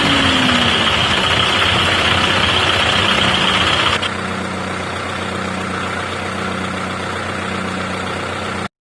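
Tractor diesel engine running steadily at idle, with a high whine over it. About four seconds in, the sound drops a little quieter and the whine stops; it cuts off abruptly near the end.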